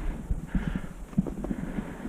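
Quick, irregular low thumps of a player's footsteps and gear jostling as they move during a paintball match.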